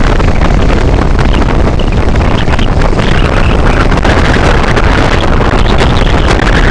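Loud, steady wind rushing over the microphone of a moving vehicle, with engine and road noise underneath.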